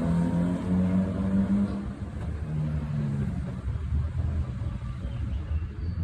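Honda N360 kei cars' small air-cooled two-cylinder engines running. The engine note is clearest over the first three seconds, then fades into a duller rumble.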